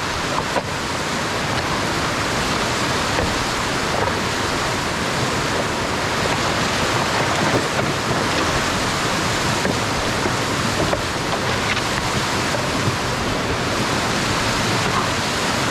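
Steady rushing noise of downhill skiing: wind buffeting the camera microphone, with the skis hissing over snow.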